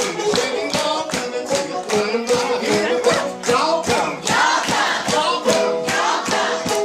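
Live old-time song sung by a leader and a crowd joining in call and response, over a steady beat of instruments and percussion at about four strokes a second.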